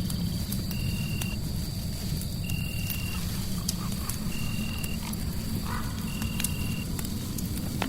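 Fireplace fire crackling, with sharp pops over a steady low rumble and hiss. A short high chirp repeats about every two seconds above it, four times.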